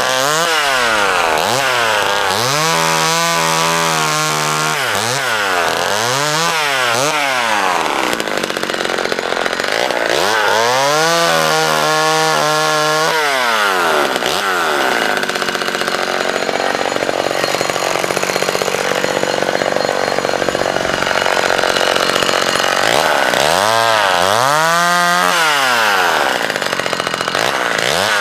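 McCulloch Mini Mac 35 two-stroke chainsaw revving up and dropping back to idle over and over. In the middle it is held at high revs for several seconds while cutting through branches.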